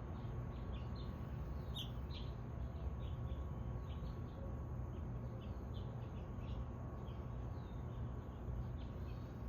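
Birds chirping: many short high chirps scattered throughout, over a steady low rumble.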